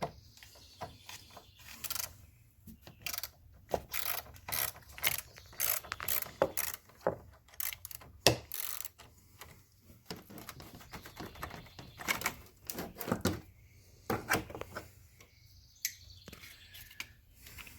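Hand socket ratchet with a 10 mm socket clicking in irregular runs while loosening a car battery terminal nut to disconnect the battery.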